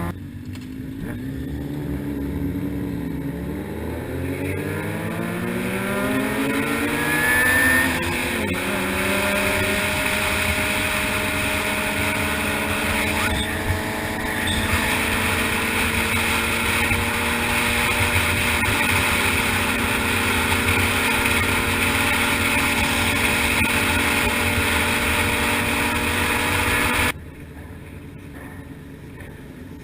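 Honda CBR600RR sportbike's inline-four engine pulling hard, its pitch climbing over several seconds, then holding a steady high-revving note while riding, with wind rush. Near the end the sound drops sharply quieter.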